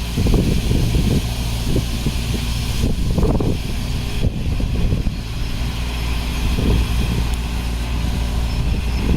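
Heavy construction machine's diesel engine running steadily, with irregular rough louder bursts every second or two.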